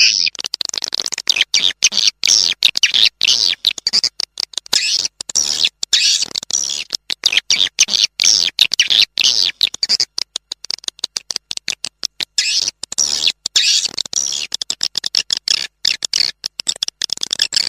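Swiftlet lure recording: a dense, rapid chattering of short high chirps and twitters from edible-nest swiftlets, calls packed closely one after another. It is a sound played to attract swiftlets to roost and nest in a bird house.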